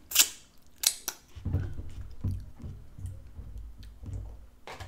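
Close-up chewing of a fried taco empanada topped with raw onion and lettuce: two sharp crisp crunches in the first second, then steady wet chewing about twice a second.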